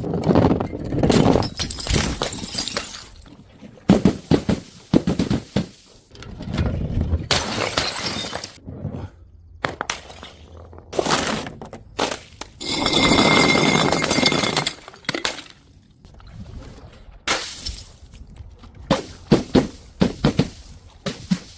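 Glass bottles shattering one after another, each a sudden crash followed by the clinking and crunching of broken glass; the longest crash, about 13 s in, lasts nearly two seconds with a ringing glassy tone.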